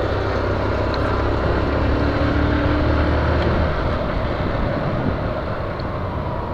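Motor vehicle noise while riding a Honda CG 125 Fan motorcycle through city traffic: a steady low engine drone with road and traffic noise. A steady hum joins in for about two seconds partway through.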